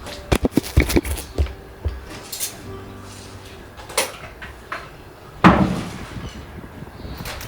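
Clattering knocks of hard objects during building work: a quick run of knocks in the first second and a half, one more knock around four seconds in, and a single heavier bang about five and a half seconds in.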